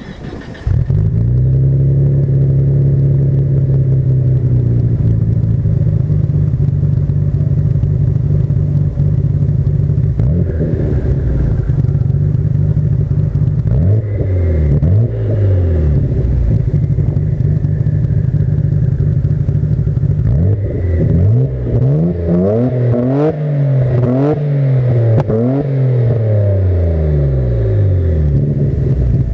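Nissan Skyline GT-R (BNR32) RB26DETT twin-turbo straight-six exhaust through an HKS Silent Hi-Power muffler. The engine comes in sharply about a second in and settles into a steady idle. It is revved a couple of times mid-way, then blipped quickly several times in a row near the end before dropping back to idle.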